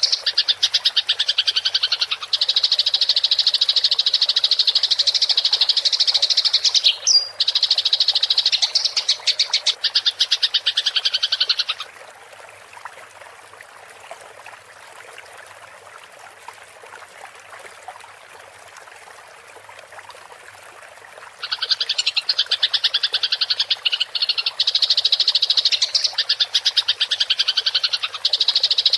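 Eurasian tree sparrows chattering in a fast, continuous roll of high chirps, the agitated calling of sparrows fighting. About twelve seconds in the chattering stops for roughly nine seconds, leaving only a faint steady trickle of water, then it starts again.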